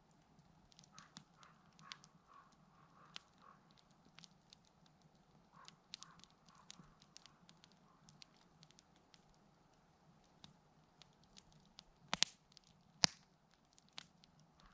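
Campfire crackling softly, with scattered small pops and two louder sharp snaps near the end.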